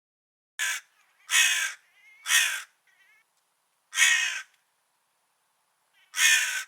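A crow cawing five times: harsh, hoarse caws each under half a second, the first short and faint, three close together early on, then two more spaced further apart.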